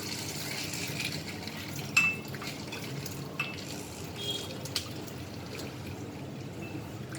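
Raw chicken being washed in a pot of water: water sloshing and splashing, with a few sharp clinks against the pot, the loudest about two seconds in.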